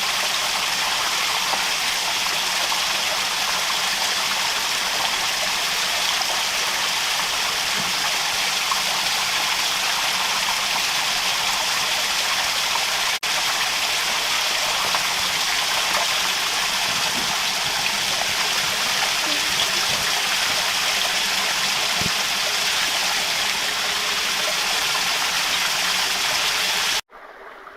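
Rushing rocky stream: a steady, loud wash of water flowing over stones, which cuts off suddenly near the end.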